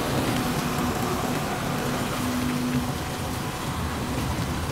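Steady sizzle of frying food, mixed with a steady motor hum that comes and goes.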